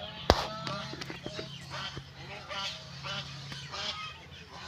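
A flock of fowl calling: many short, overlapping honking calls over a steady low hum, with a sharp click about a third of a second in.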